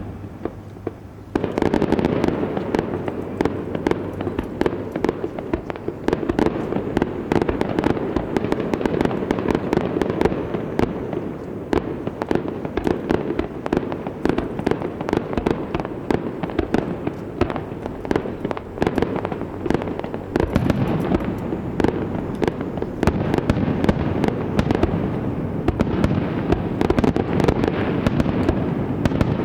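Aerial fireworks in a dense, continuous barrage of bursts and crackling that starts suddenly about a second and a half in.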